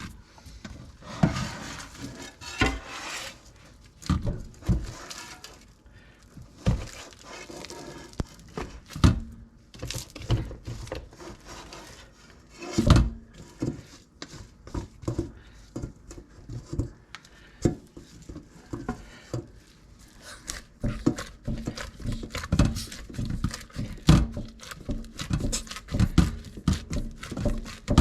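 Irregular thumps, knocks and handling noises as ground sausage meat is packed down into a sausage stuffer's canister to press out the air.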